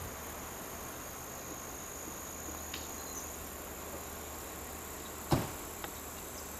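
Steady high-pitched trilling of insects in the background, with a single sharp click about five seconds in.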